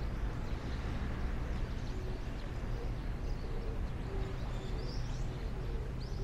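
Outdoor ambience: a steady low rumble and hiss, with small birds chirping and, from about two seconds in, a bird's short low hooting notes repeated about twice a second.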